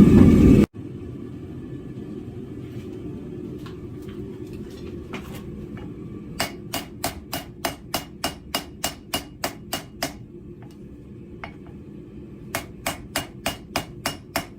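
Hammer blows on hot steel over an anvil, a forge-welding pass on a welded billet: two runs of quick, even strikes of about three a second, each with a short metallic ring, with a pause of about two seconds between them. A loud low rumble cuts off abruptly at the very start, and a steady low hum runs beneath the blows.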